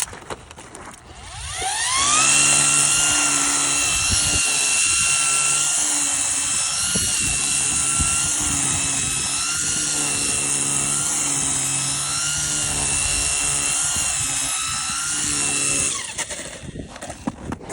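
A small engine-powered blower clearing snow spins up about a second in and runs at high speed with a steady whine over a rush of air, then cuts off abruptly about sixteen seconds in.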